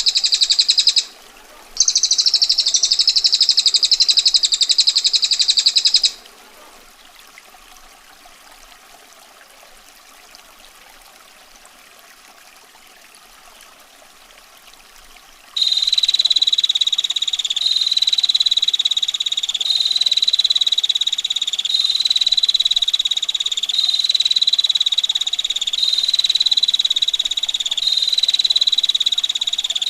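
Small songbirds trilling: a dense, rapid, high-pitched trill with a short break about a second in, stopping about six seconds in. A soft steady rush of running water follows for about nine seconds. Then a long, rapid trill on one steady pitch starts, repeating in even stretches of about two seconds.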